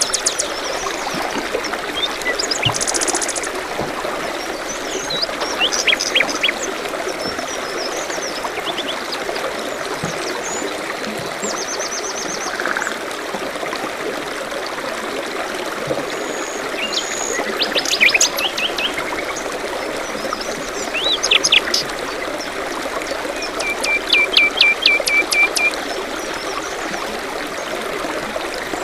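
A small stream trickling steadily, with songbirds chirping over it in short calls and trills, and a run of about eight quick repeated notes near the end.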